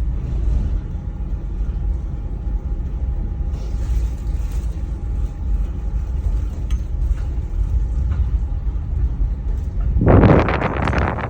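Aerial tramway cabin riding its cables: a steady low rumble with a faint steady whine. Near the end, a sudden loud rattling clatter as the cabin's carriage rolls over the sheaves of a support tower.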